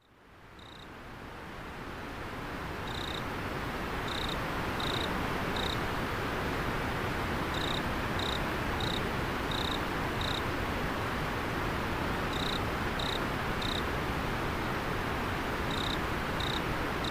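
River water flowing steadily, fading in over the first two seconds or so, with an autumn insect chirping over it: short high notes, evenly spaced, in runs of three to six with pauses between.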